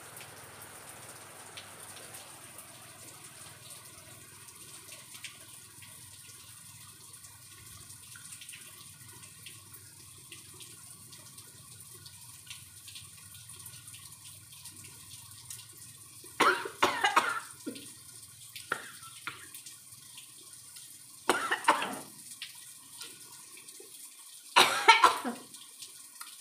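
Biting and chewing unripe green mango slices close to the microphone: three loud bursts, about two thirds of the way in, a few seconds later, and near the end, over a faint steady hum.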